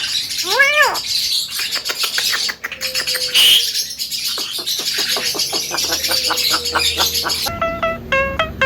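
Javan myna singing: an arched whistled call near the start, then a long run of rapid clicking, rattling chatter.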